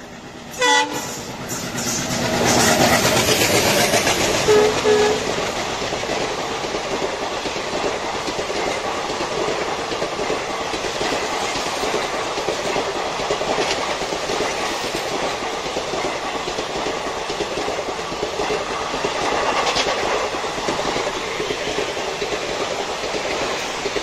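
Diesel-hauled express train, led by an ALCO WDG-3A locomotive, running through a station at speed. The horn gives a short blast about a second in and another brief sounding near five seconds. Then the coaches rush past with a steady clickety-clack of wheels over the rail joints, dying away near the end.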